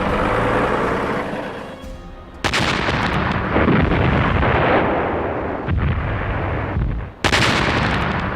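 Battle sound effects of artillery firing and shells exploding, dense and loud, with sudden jumps in the sound about two and a half seconds in and again about seven seconds in.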